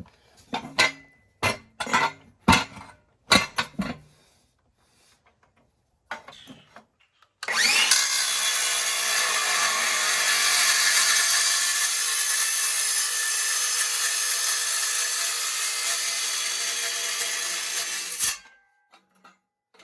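Several sharp metal knocks as pipe is handled. Then, about seven seconds in, a power cutting tool spins up and cuts steadily through a steel exhaust pipe for about ten seconds before stopping abruptly.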